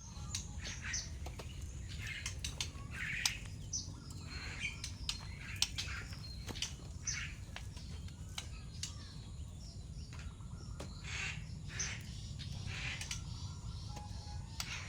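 A songbird giving short, scratchy chirps and calls every second or so, mixed with sharp clicks, over a steady low hum.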